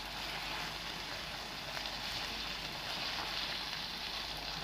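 Chicken and vegetables sizzling steadily in a frying pan.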